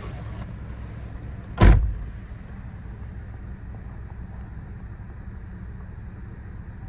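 2000 Chevrolet Blazer's 4.3-litre V6 idling steadily after a cold start, with a single loud, sharp thump about a second and a half in.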